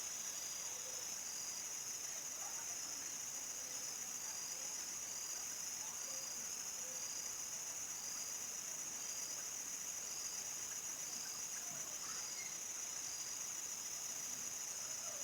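Crickets chirping in a steady, high-pitched chorus at nightfall, with faint scattered short calls from other animals lower down.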